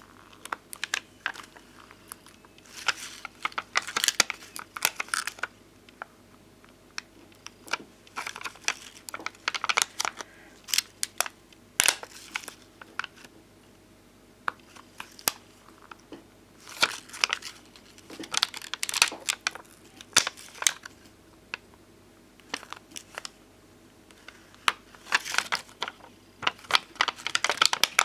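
Glossy puffy resin stickers (Bonbon Drop and ohajiki-style stickers) and their backing sheet being peeled and handled close up. They give crinkling, crackly sounds with sharp little ticks, in irregular bursts with short pauses between.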